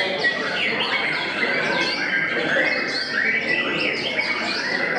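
A white-rumped shama singing amid a dense chorus of other songbirds, with many short whistles and chirps overlapping without a break.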